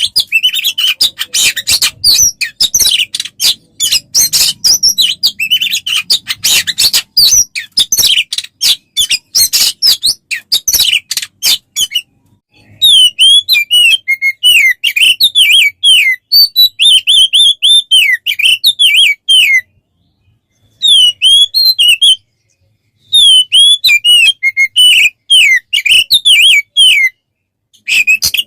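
Recorded songbird song used as masteran, tutor song for training an oriental magpie-robin. It opens with a long stretch of rapid, dense chattering and twittering. After a brief pause about 12 seconds in, loud whistled phrases follow, repeated with short silences between them.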